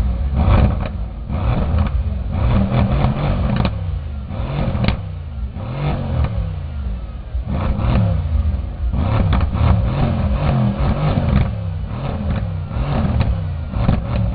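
A sports car engine revved in a string of short blips, each rising and falling in pitch, with a couple of sharp cracks partway through.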